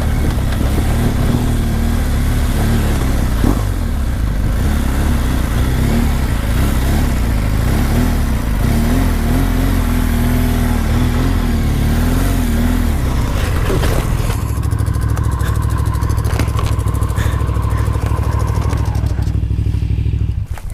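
BMW R1200GS boxer-twin motorcycle engine running under load on a dirt trail, heard from the rider's helmet camera. The sound cuts off abruptly near the end.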